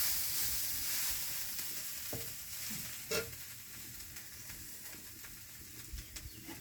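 Food sizzling as it fries in a pan, the sizzle dying down, with a couple of light knocks of a utensil against the pan.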